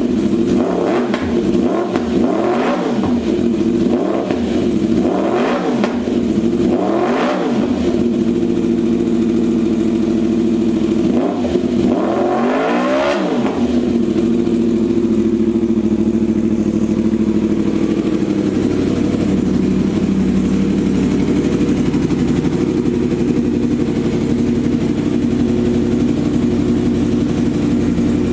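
2018 Yamaha R1's crossplane inline-four running through an aftermarket eBay slip-on exhaust. It idles with five quick throttle blips in the first eight seconds and a bigger rev about thirteen seconds in, then settles to a steady idle.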